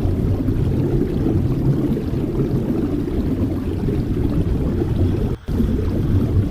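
Strong wind buffeting the microphone: a steady low rumble, broken by a very short dropout near the end.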